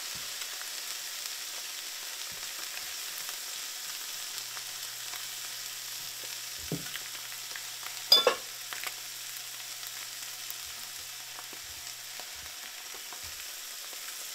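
Eggs and ham frying in butter in a skillet, with a steady sizzle and a spatula stirring. A sharp knock sounds a little past halfway, the loudest moment, with a smaller one just before it.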